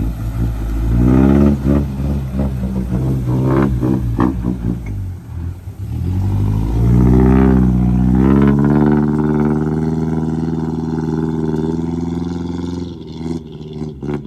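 Old truck's engine revving hard under load as it works through mud. The revs surge and drop unevenly for the first few seconds, climb again about seven seconds in, then hold high and slowly ease off.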